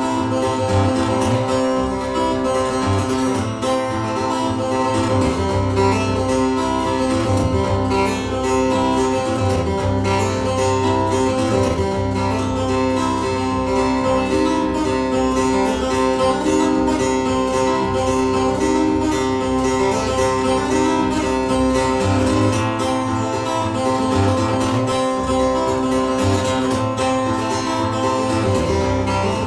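Acoustic guitar playing an instrumental passage, with steady ringing drone notes over a low bass line that drops out and comes back.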